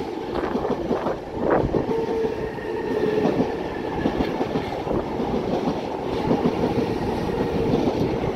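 Electric multiple-unit passenger train passing close below, its wheels clicking over the rail joints. A steady tone runs under the wheel noise from about two seconds in until near the end.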